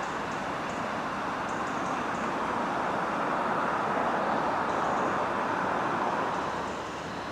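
A train passing, its steady rumble and rush swelling to a peak about halfway through and easing off near the end.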